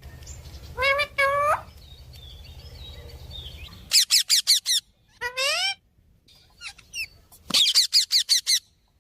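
Parrot calling: two short rising calls, then a rapid run of sharp chirps, a rising whistle, and a second rapid chirp run near the end. A low hum runs underneath for the first half.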